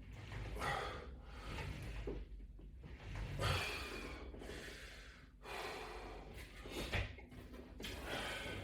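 A person breathing hard from exertion during sit-up reps, a forceful breath every second or so.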